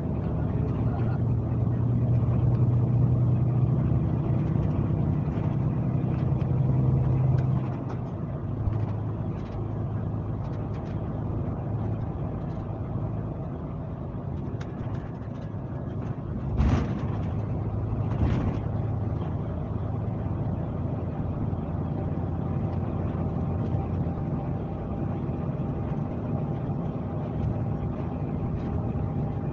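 Scania K370C coach engine running on the road, a steady low hum that is louder for the first seven seconds or so and then eases to a lower, even level. Two short knocks come about a second and a half apart, near the middle.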